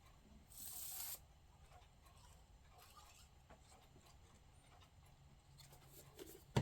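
A brief rub of paper on paper about half a second in, lasting under a second, then faint small taps and rustles of paper craft pieces being handled.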